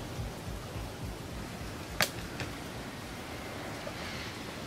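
Steady rain falling during a thunderstorm, with a sharp click about two seconds in and a fainter one just after.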